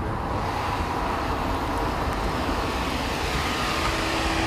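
A car driving, with steady engine, tyre and wind noise.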